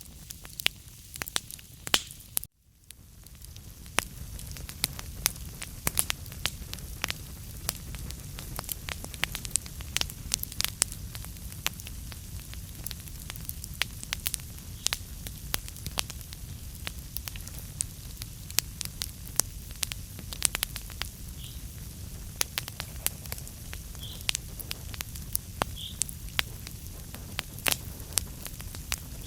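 Wood fire burning in a fireplace, crackling with frequent sharp pops over a steady low rumble of flames. The sound drops out for a split second about two and a half seconds in, then carries on.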